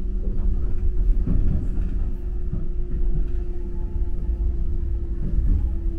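Docklands Light Railway train running, heard from inside the carriage: a steady low rumble with a steady motor hum and a few knocks from the wheels. The hum drops slightly in pitch near the end as the train slows on its approach to the station.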